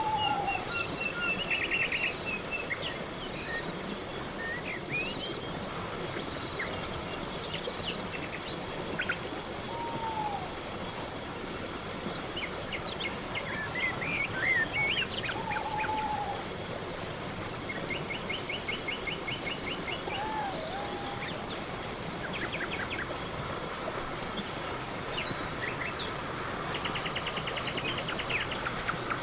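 Night forest ambience: crickets chirping in a steady, even rhythm, with a few short whistled calls and brief buzzy trills scattered over it.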